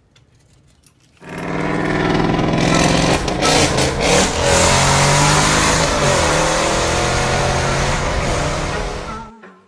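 A motor vehicle engine running loudly, with some rise and fall in pitch. It starts abruptly about a second in and fades out near the end.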